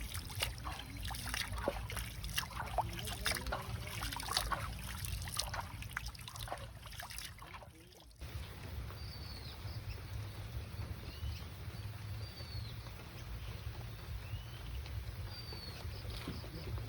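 Light rain, with drops dripping and pattering onto water. About halfway through, the sound cuts to a steadier outdoor hush with a bird repeating a short high chirp every second or two, over a steady low rumble.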